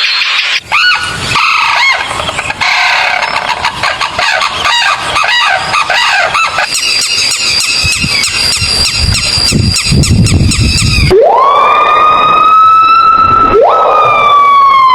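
A run of short, different sound clips cut together. The loudest and last, about eleven seconds in, is a siren wail that rises to a held note, starts over, and begins to fall near the end.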